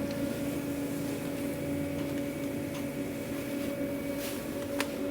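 Steady mechanical hum of food-truck kitchen equipment, with one sharp click near the end.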